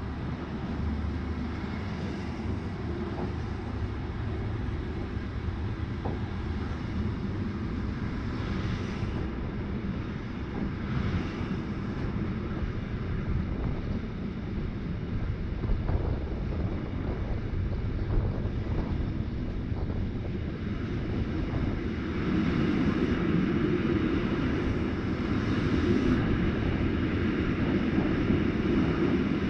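RhB ABe 8/12 "Allegra" electric multiple unit running along the line: a steady rumble of wheels on rail and traction noise, which grows louder about two-thirds of the way in.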